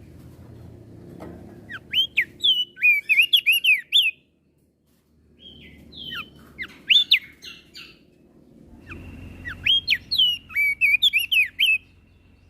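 Crested white-eye (opior jambul) singing three bursts of fast chattering song, quick rising and falling notes, each burst lasting about two seconds. A thin steady whistle-like tone runs under the last burst.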